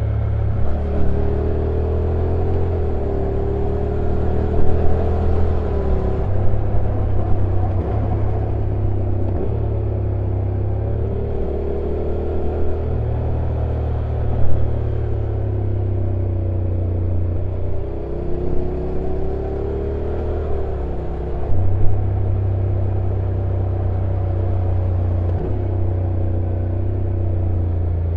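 Honda NC750X DCT's 745 cc parallel-twin engine with stock exhaust running at low revs on a downhill ride, its pitch rising and falling and stepping several times as the revs change. A few brief louder knocks stand out.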